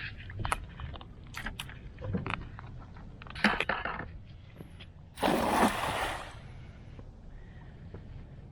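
Water sloshing with several short knocks, then a loud splash about five seconds in, as someone climbs down into a shallow creek at the water's edge.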